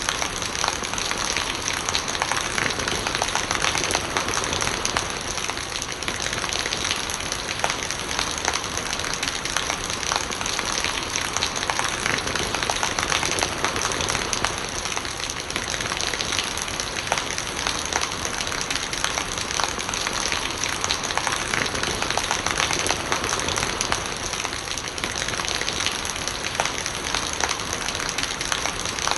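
Steady rain falling, a dense hiss of countless drops striking surfaces, with many fine ticks from individual drops throughout.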